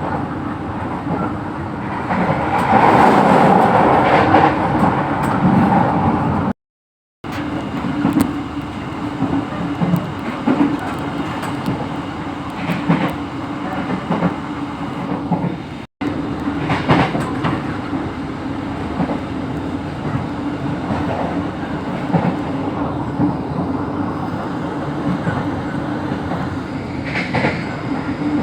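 Train running on rails: a steady rumble with wheel clatter, louder for the first few seconds. The sound breaks off for about half a second roughly a quarter of the way in, and again very briefly about halfway.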